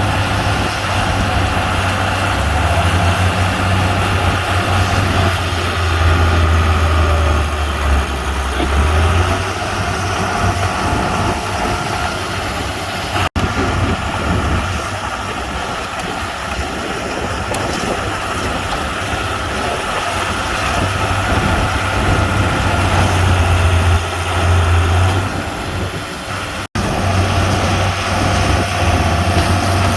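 Diesel engines of heavy earthmoving machinery (bulldozers and dump trucks) running with a steady low drone. The sound cuts out sharply for an instant twice, about 13 and 27 seconds in.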